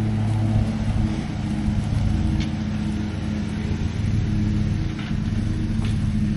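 An engine running steadily, with a couple of faint sharp clicks.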